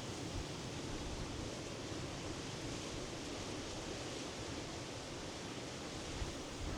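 Sea surf washing steadily, an even rushing noise with no single wave breaking out above the rest.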